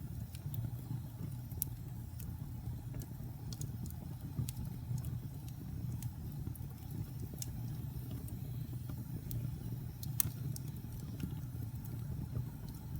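Log fire in a fireplace burning with a steady low rumble of flame and scattered sharp crackles and pops, two of them louder, about one and a half seconds in and near ten seconds in.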